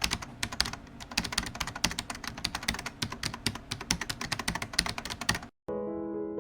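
Fast, irregular keyboard typing clicks, several a second, stopping abruptly about five and a half seconds in. Piano music starts just after.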